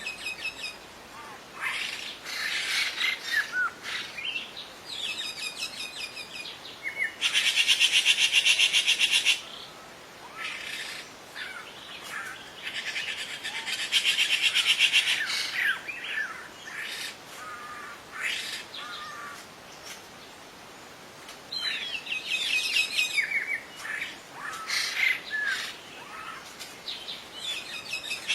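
Several wild birds singing together: assorted chirps and whistles, broken twice by a loud, rapid trill about two seconds long.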